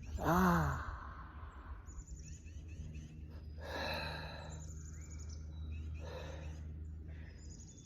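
A man sighs, a short falling voiced sound about half a second in, then draws a breath around four seconds in. Small birds chirp faintly in the background over a steady low hum.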